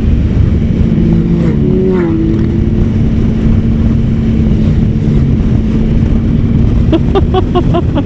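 Triumph Sprint ST 1050's three-cylinder engine running at a steady cruise, with dense wind and road rumble on the microphone. Near the end comes a quick series of short pitched pulses.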